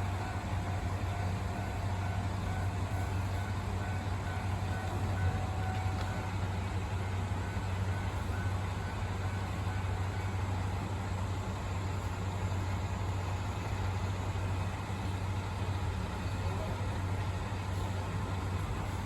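Steady low rumble of a train running, with a faint high tone over it for the first few seconds.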